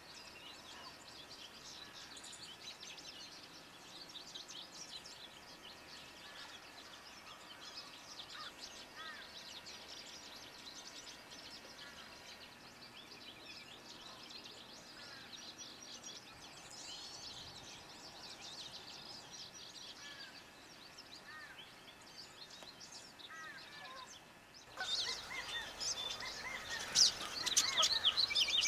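Wild birds calling, many short chirps and warbling notes overlapping at low level. About 25 seconds in it switches suddenly to a louder, denser chorus of bird calls.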